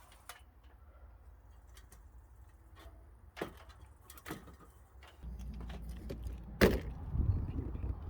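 Wooden knocks as timber is handled: two light knocks, then a single loud thump about two-thirds of the way in, over a low rumble that grows louder partway through.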